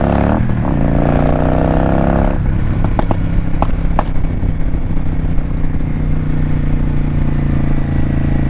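Motorcycle engine accelerating hard, its pitch climbing and dropping at two upshifts in the first couple of seconds, then running steadily at cruising speed. A few sharp clicks come about three to four seconds in.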